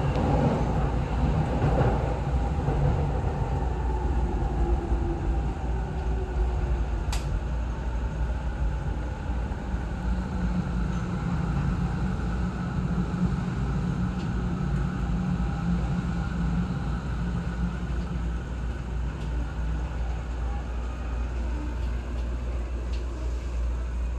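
TWR 70-000 series electric commuter train, a steady low hum with faint falling tones in the first few seconds and a single sharp click about seven seconds in.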